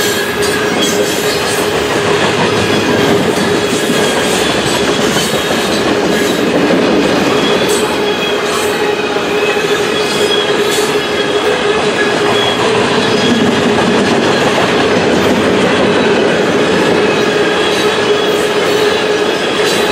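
Freight train cars, mostly covered grain hoppers, rolling steadily past on steel rails: a continuous rumble and hiss of wheels with a constant ringing wheel tone, and now and then a sharp click of wheels over the rail.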